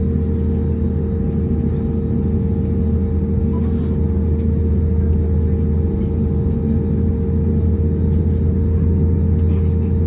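Steady drone inside the cabin of an Airbus A321neo on the ground: a constant low rumble with a steady mid-pitched hum over it, unchanging throughout.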